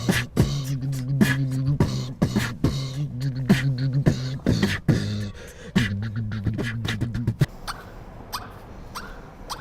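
Mouth beatboxing: a held, hummed bass line under rapid kick and snare clicks. It stops about seven and a half seconds in, leaving only a few sparse clicks with short falling chirps.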